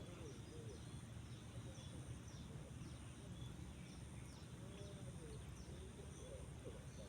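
Riverside outdoor ambience: faint, repeated short high bird chirps over a steady low rumble and a continuous thin high whine. A few brief wavering calls come right at the start and again from about four and a half seconds in.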